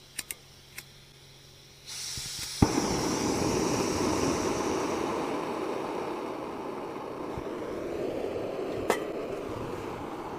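A portable camp stove being lit: a sudden hiss of fuel about two seconds in, a sharp click as it catches, then the burner runs with a steady rushing sound that slowly eases.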